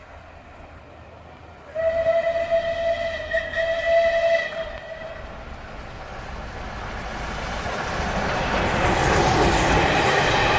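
Steam whistle of the Merchant Navy class locomotive 35028 Clan Line, one long blast starting about two seconds in and lasting some three and a half seconds. Then the locomotive and its train grow steadily louder as they approach.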